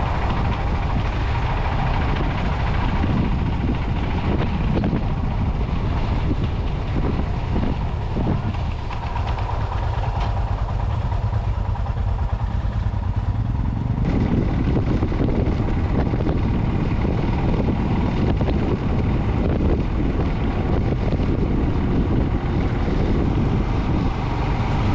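Motorcycle engine running while riding, with wind rushing over the microphone; the sound changes abruptly about halfway through.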